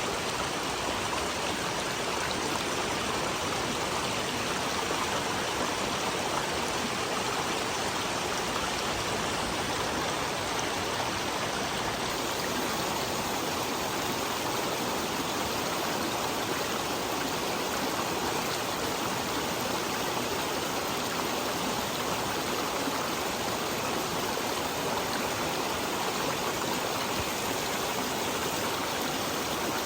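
Creek water flowing steadily, a constant even rush with no change.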